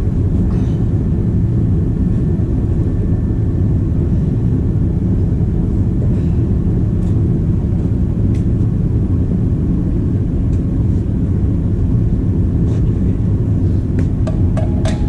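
Engine of a piece of heavy equipment running steadily at constant speed, a low rumble, with a few light clicks near the end.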